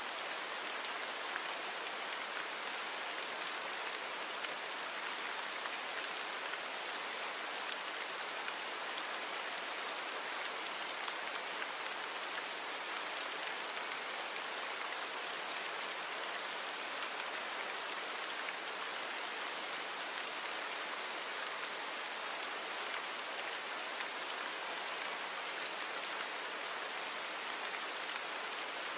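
Steady rain falling, an even hiss of many drops with faint drop ticks, with no thunder or wind. It is a natural rain recording, cleaned with noise reduction.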